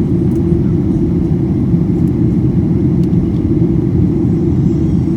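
Steady deep rumble inside the cabin of a Boeing 737-800, heard from a seat near the wing: jet engine and airflow noise, even throughout, with no pitched whine standing out.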